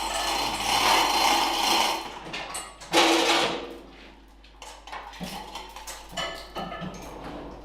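Workshop handling noises: a rubbing scrape for about two seconds, a louder brief scrape about three seconds in, then scattered small clicks and knocks of tools and parts.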